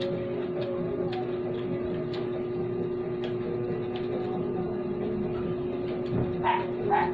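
Faint clicks of a person chewing and eating rice and tomato by hand over a steady hum. Near the end come two short, louder sharp sounds about half a second apart.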